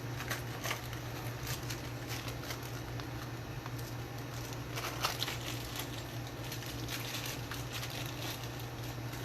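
Hands handling small parts during pickup installation: scattered light clicks, taps and rustles, a little louder about five seconds in, over a steady low hum.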